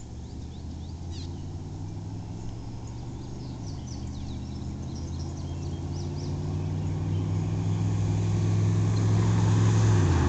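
A motor vehicle's engine running and growing steadily louder as it approaches, its pitch dropping in a step about a third of the way in and again near the end. Birds chirp faintly in the first half.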